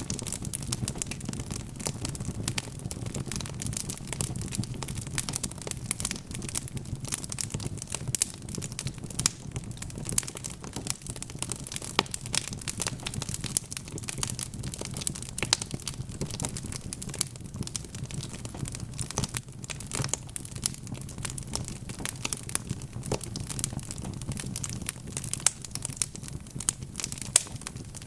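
Wood logs burning in a fireplace, crackling with dense, irregular pops and snaps over a steady low rumble.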